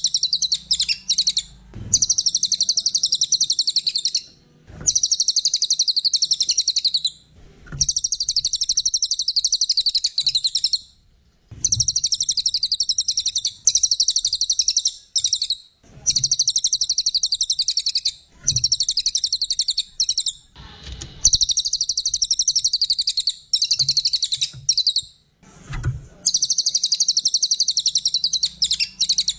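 A cililin songbird singing in a rapid, very high-pitched trilling chatter, phrase after phrase of about two to three seconds with short pauses between them.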